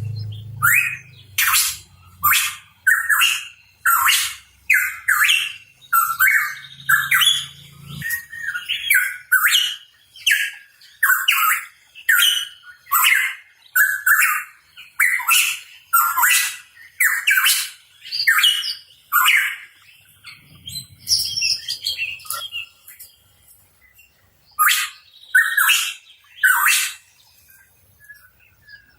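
Pitohui calling, a rapid run of loud, sharp notes at about one and a half a second. The notes thin out for a few seconds after the middle, then come in a short final burst.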